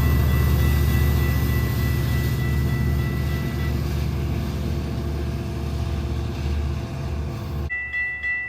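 A passing diesel train makes a loud, steady low rumble under a thin high ringing tone that fades away. Near the end the sound cuts abruptly to a railroad crossing bell ringing at about two to three strikes a second.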